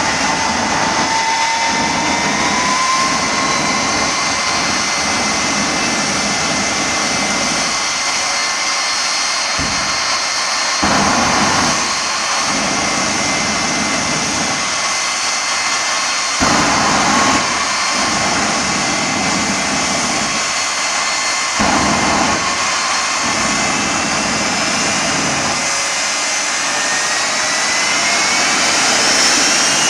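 Jet engine running with a steady turbine whine over a loud rush of exhaust. It gives three short louder surges of rushing, and near the end its whine climbs in pitch as it spools up.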